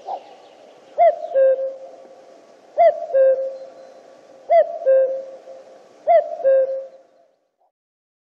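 Male common cuckoo calling its two-note "cu-koo", the first note higher than the second, four times at an even pace. The recording cuts to silence about a second before the end.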